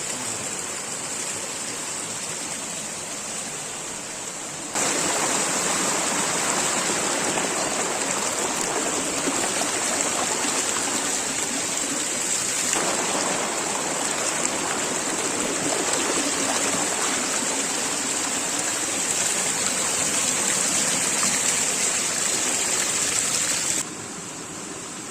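Water running steadily in a rocky forest stream, a constant rushing. It jumps louder about five seconds in and drops back abruptly near the end.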